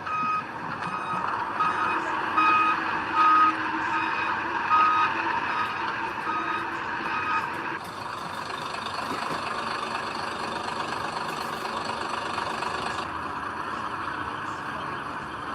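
Backup alarm of a heavy earthmoving vehicle beeping over and over at one pitch as it reverses, over the steady noise of its diesel engine. The beeping stops about eight seconds in while the engine keeps running.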